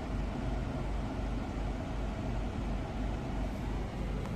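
Steady road and engine noise inside a car's cabin while driving on the highway.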